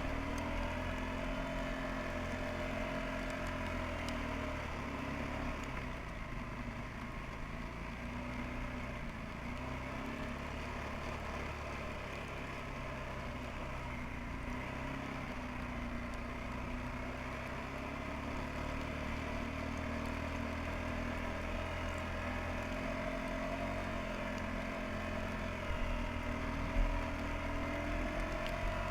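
Suzuki Quadrunner 300 ATV's single-cylinder four-stroke engine running at fairly steady revs in first gear, its pitch wavering slightly, with a brief knock near the end.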